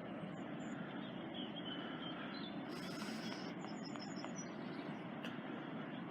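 Steady outdoor background noise, a constant even hiss, with a few faint high chirps about half a second, a second and a half, and four seconds in.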